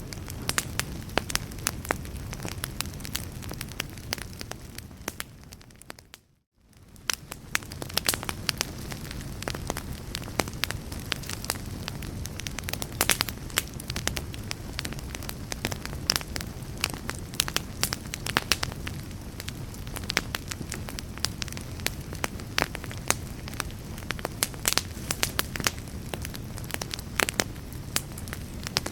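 Fire crackling: frequent sharp pops and snaps over a low, steady rumble of flame. About six seconds in, the sound fades out to near silence for a moment and then fades back in.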